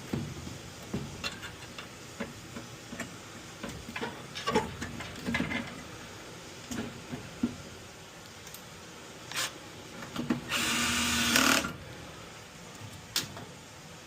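Metal parts clinking and knocking as a furnace gas manifold is set back in place. About ten and a half seconds in, a cordless drill/driver runs steadily for about a second, driving in a mounting screw.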